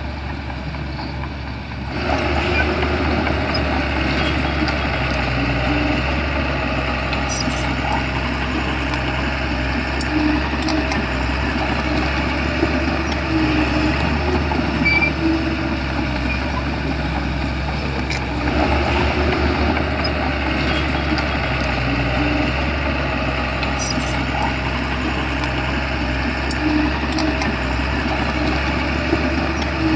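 Shantui bulldozer's diesel engine running steadily, louder from about two seconds in.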